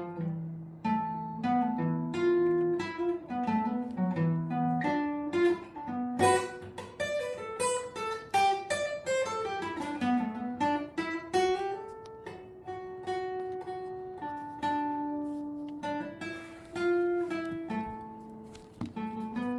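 Acoustic guitar being played: plucked single notes and chords, with a run of notes stepping down and climbing back up in the middle.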